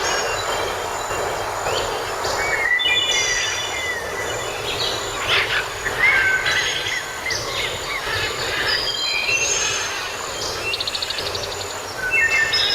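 Steady rain hiss with birds chirping over it: short whistled calls that slide up and down, and a quick trill about two-thirds of the way through.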